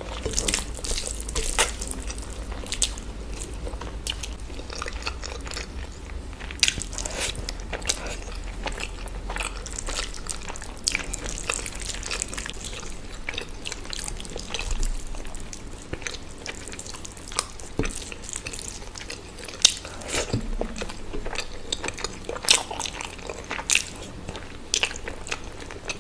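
Close-miked eating of chicken dishes: irregular bites, crunches and wet chewing and lip smacks.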